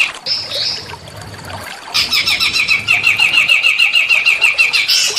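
Small songbird singing a fast, evenly repeated run of sharp chirps, several a second. The run breaks off at the start, a short whistled phrase comes in its place, and the chirping picks up again about two seconds in.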